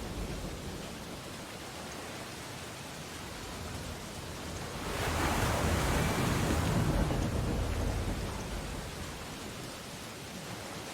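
Ocean waves on a beach: a steady wash of surf, with one wave swelling and breaking about halfway through, then easing back.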